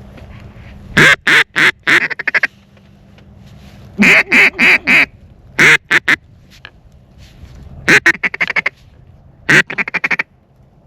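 Duck call blown in loud runs of quacks: short groups of separate quacks, then a quicker chattering run near the end, used to call in passing ducks.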